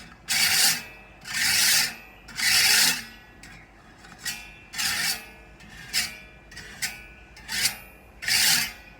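Metal sharpening rod drawn along the teeth of a bow saw blade in repeated scraping strokes, roughly one a second. The first three strokes are long and strong, the middle ones shorter and lighter, and the strokes grow strong again near the end.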